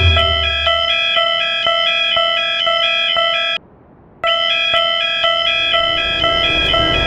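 Railroad crossing warning bell ringing in an even repeating ding, about two strikes a second. It stops for about half a second a little past halfway, then starts again.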